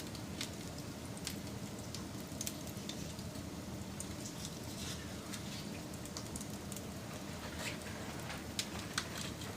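Wood fire burning: a steady low rumble with irregular sharp crackles and pops, a couple of louder snaps near the end.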